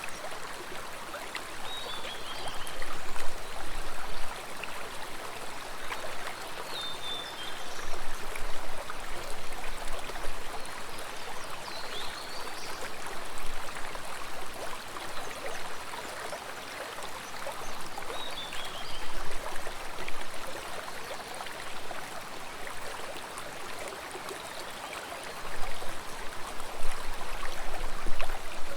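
Stream water flowing and splashing steadily, swelling and easing every few seconds. A short high descending call sounds faintly every five seconds or so.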